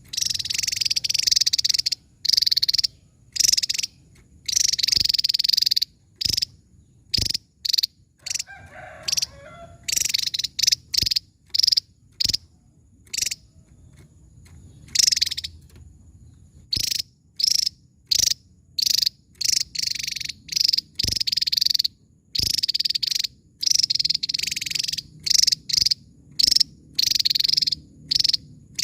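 Javan tesia singing: rapid, sharp, high-pitched notes in bursts, some single short calls and some run together into phrases of about a second, with brief gaps between.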